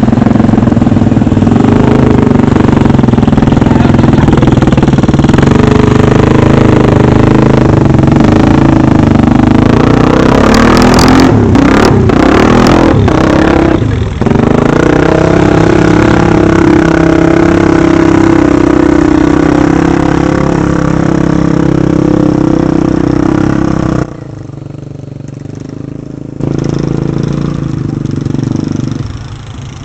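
Motorcycle engine running loud and steady at high revs. Around the middle it revs up and down, and near the end it drops suddenly for a couple of seconds before coming back up.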